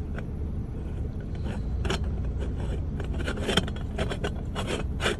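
Two halves of a moka pot being screwed together, its metal threads giving repeated scraping clicks that come faster from about three seconds in. A steady low rumble runs underneath.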